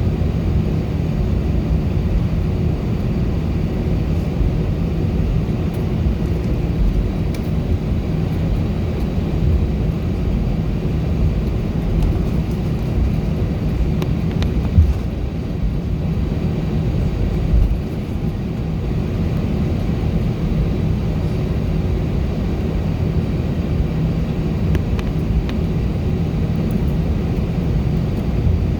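Steady rumble of an Airbus A319's engines and airflow heard inside the passenger cabin. A single knock comes about fifteen seconds in, and the noise drops slightly a few seconds later.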